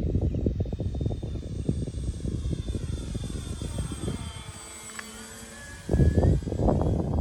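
Electric motor and propeller of a radio-controlled Carbon Cub model plane whining in flight, its pitch sinking and then climbing again. Wind buffets the microphone, loudest in gusts near the start and again about six seconds in.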